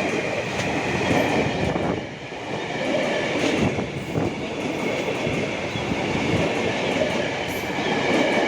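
A train passing close by, its wheels rumbling and clattering along the track, with a steady faint high whine above the rumble.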